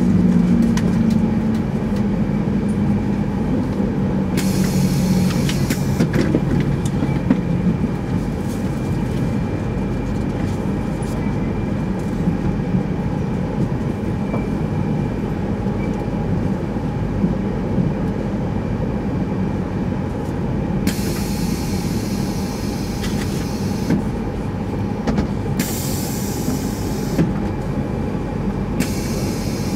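Running noise inside a 200 series Shinkansen car as it rolls slowly along a station platform. A low motor whine falls in pitch over the first several seconds as the train slows, and there are several short bursts of high hiss.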